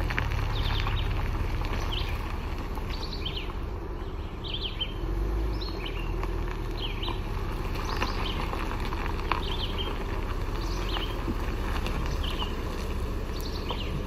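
Birds singing: short chirping phrases repeated every second or so, over a steady low rumble.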